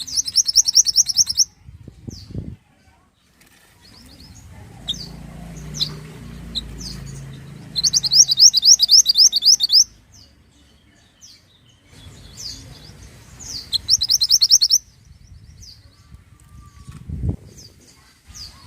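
Mantenan songbird singing. It gives three loud bursts of rapid, evenly repeated high notes, about seven a second, with scattered short high chirps between the bursts.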